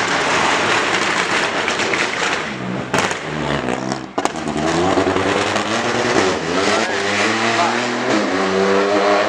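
Rally car engine at high revs as the car passes on a stage, with sharp cracks about three and four seconds in. The pitch then rises and falls repeatedly with gear changes and throttle.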